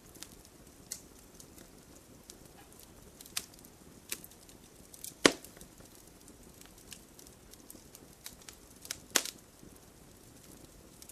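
Fire crackling in a fireplace: scattered sharp snaps and pops over a faint steady hiss, with two louder pops about five and nine seconds in.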